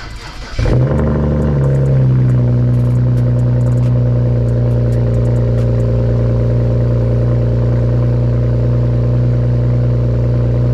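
BMW 335i's turbocharged straight-six starting through a muffler-deleted exhaust. It catches under a second in, flares, and by about two seconds settles into a loud, steady idle.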